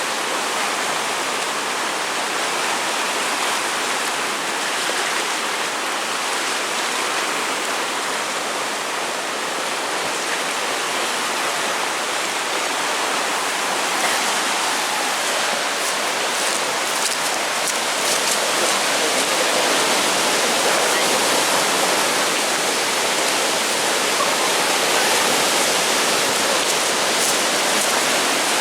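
Steady rushing and churning of river water in tidal-bore waves, growing a little louder past the middle.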